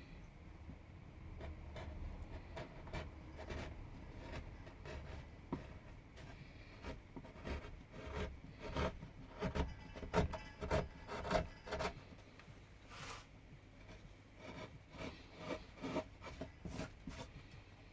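Hand carving tool cutting and scraping into pine wood in repeated short strokes, which come louder and closer together about halfway through.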